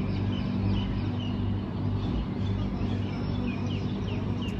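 Birds chirping outdoors: short high calls repeating a few times a second over a steady low hum.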